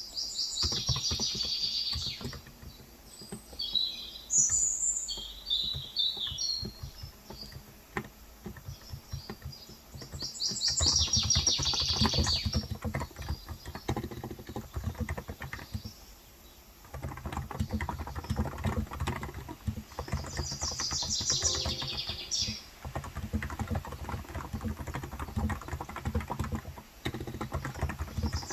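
Steady typing on a Cox Endeavor electrostatic-capacitive tenkeyless keyboard with 35 g keys, a dense run of soft keystrokes with a short pause in the middle. Small birds chirp in several bursts over the typing.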